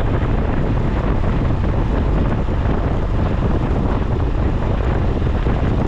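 Wind buffeting the microphone of a moving motorcycle, a steady low rumble with the Hero Honda Splendor Plus motorcycle running underneath.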